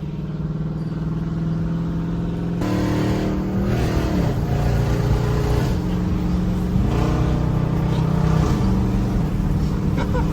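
Pickup truck engine running at a steady pitch, then about two and a half seconds in it gets louder and revs hard, its pitch climbing and dropping several times as the truck is driven hard.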